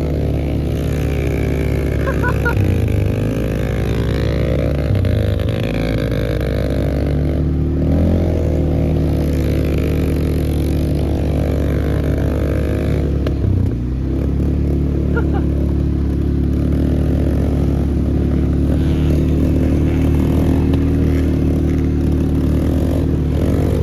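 Pit bike engine running steadily, with slight rises and falls in engine speed.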